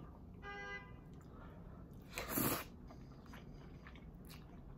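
A person eating close to the microphone: faint chewing and mouth clicks, with one louder, noisy mouthful sound about two seconds in.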